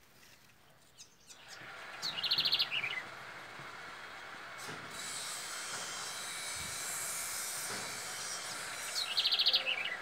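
A small songbird calling twice, about seven seconds apart: each call a fast trill of repeated high notes ending in a short downward slide. A steady high hiss sits underneath from about halfway.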